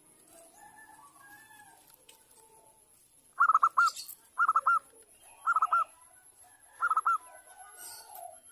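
Zebra dove (perkutut) calling: four short bursts of quick, rolling coo notes, each a little over a second apart, over faint chirping from other birds.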